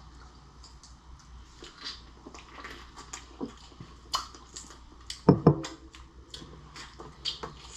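Close-up eating sounds of lobster and shrimp being chewed, with many scattered sharp clicks and two loud knocks a little over five seconds in.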